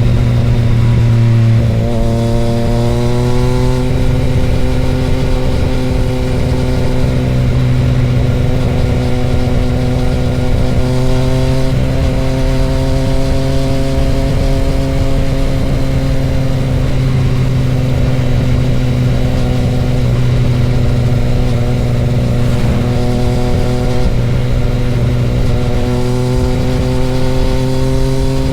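Motorcycle engine running steadily under way, its pitch climbing a few times and easing back down between.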